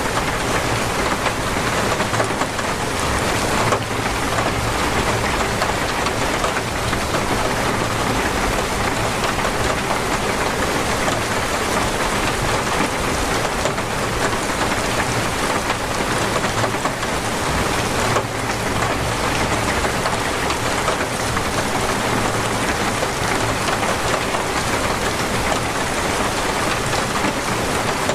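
Torrential rain falling steadily, a dense, even hiss of many drops.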